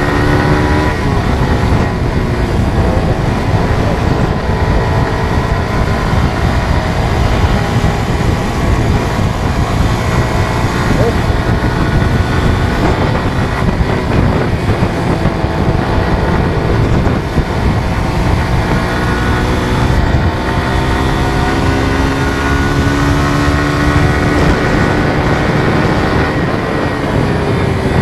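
Suzuki GSX-R150 motorcycle's single-cylinder four-stroke engine running at speed, its pitch falling just after the start, then climbing steadily through the second half before dropping again near the end as gears are shifted. Wind rumbles on the microphone throughout.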